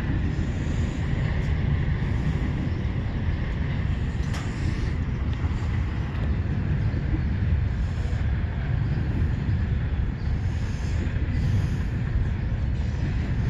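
A long CSX freight train rolling past, a steady rumble of the cars on the rails.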